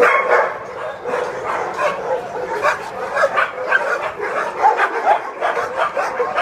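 Many kennelled shelter dogs barking and yelping over one another in a continuous din, with some whimpering.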